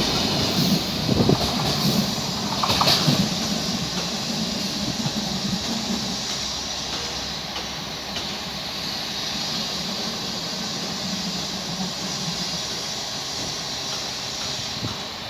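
Train rolling through a station: a steady rumble and hiss of wheels on rails, with a few knocks in the first three seconds, fading slowly.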